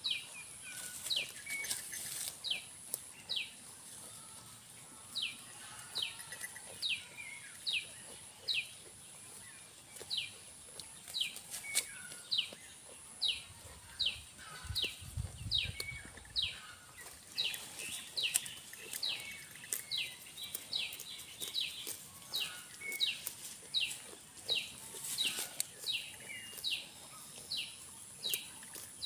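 A bird calling over and over with short whistled notes that fall in pitch, about one and a half a second. A thin high steady tone comes and goes in dashes behind it, with a few brief rustles and a short low rumble about halfway through.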